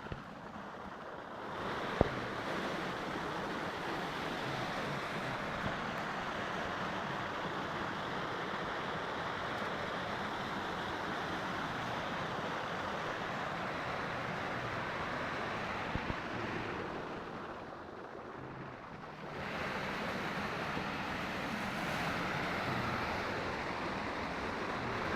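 Steady rushing water, a dense even hiss that fades for a couple of seconds past the middle and then comes back. A sharp click about two seconds in.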